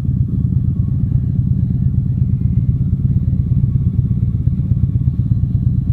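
Harley-Davidson V-twin engine running steadily with the bike under way, a dense, even low rumble of rapid firing pulses.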